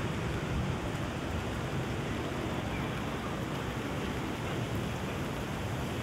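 Steady rain falling, an even hiss with a low city rumble beneath it.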